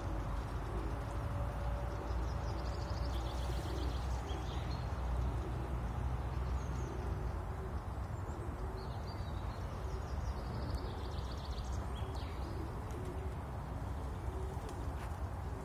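Birds chirping, short high calls every few seconds over a steady low rumble of outdoor background noise.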